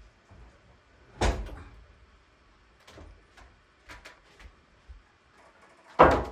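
Two loud knocks, about a second in and near the end, with lighter clicks and taps between them. The second knock leaves a brief ringing.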